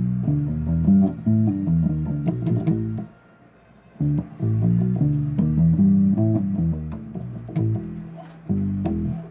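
Bass guitar played solo: a run of plucked riff notes with a little fret and string click. It breaks off for about a second around three seconds in, then picks up again.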